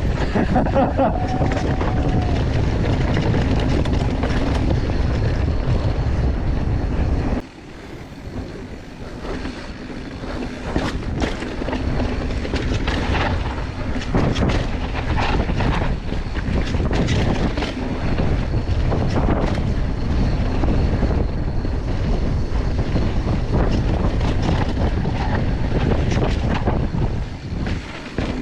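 Mountain bike descending a dirt trail: wind buffets the microphone and the tyres roll over rough ground. About seven seconds in the wind rumble drops off suddenly, leaving repeated knocks and rattles of the bike over the trail.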